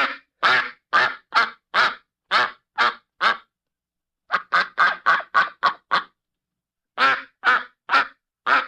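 Duck quacking: short repeated quacks in three runs separated by brief pauses, the middle run faster.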